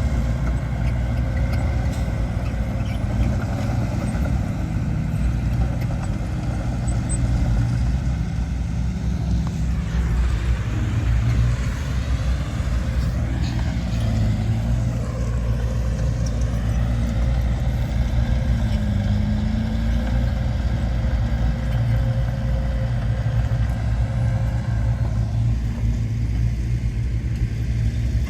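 Heavy diesel earthmoving machinery running steadily with a deep engine drone, its pitch shifting up and down for a few seconds around the middle.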